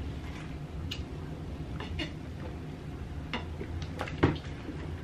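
A person chewing food with the mouth closed, close to the microphone: a few scattered soft mouth clicks and smacks, the strongest about four seconds in, over a steady low hum.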